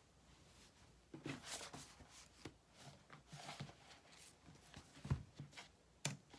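Faint rustling and handling noises with a few light knocks, the loudest a dull thump about five seconds in.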